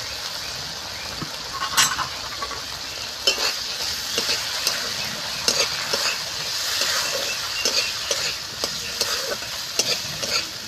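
Shrimp and sliced onion sizzling in hot mustard oil in a wok, with a spatula scraping and turning them in repeated strokes over a steady frying hiss.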